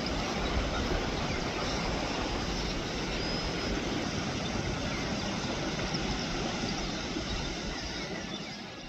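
Steady beach ambience: an even roar of surf and wind, heaviest in the low rumble, fading out near the end.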